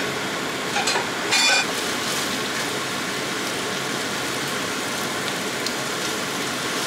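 Spaghetti sizzling steadily as it fries in oil in a metal pot while it is stirred with wooden chopsticks, with a couple of sharp clacks about a second in.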